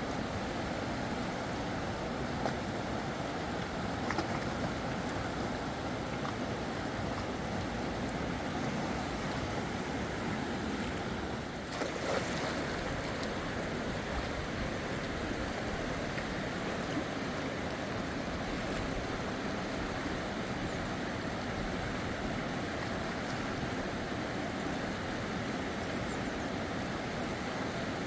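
Fast-flowing river water rushing steadily, with a short click about twelve seconds in.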